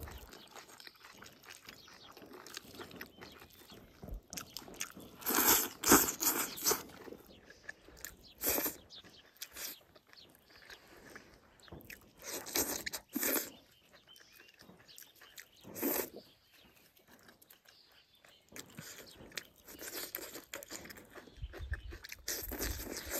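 A person eating with crunchy chewing of stir-fried green chili peppers and rice, heard close up. The chewing comes in bursts a few seconds apart with quieter pauses between.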